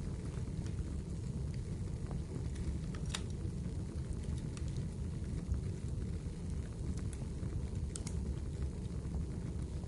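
Wood fire burning in a fireplace: a steady low rumble of the flames with scattered sharp crackles and pops, the clearest about three seconds in and again near the end.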